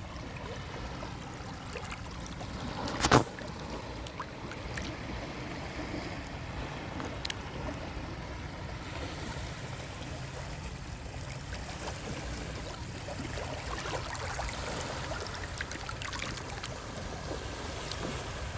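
Small sea waves lapping and washing at the shore, with a steady low rumble beneath them. A single sharp knock about three seconds in is the loudest sound.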